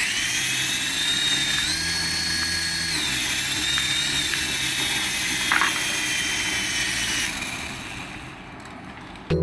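Small electric motor of a remote-control toy whirring steadily with a high whine that rises and falls slightly. It fades away after about seven seconds.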